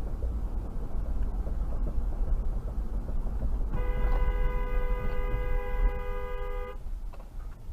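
Steady low vehicle rumble, with a two-tone car horn sounding once, held for about three seconds starting about four seconds in.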